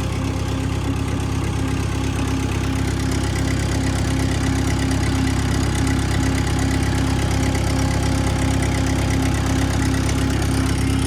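International 125 crawler loader's engine idling steadily, left running after a transmission filter change so the fluid circulates before the level is rechecked.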